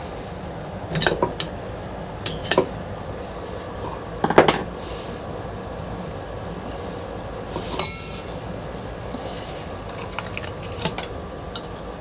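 Metal clinks and clanks of a ceiling fan being taken apart by hand: a series of separate knocks, the loudest about four seconds in. About eight seconds in comes one clink that rings on briefly like struck sheet metal.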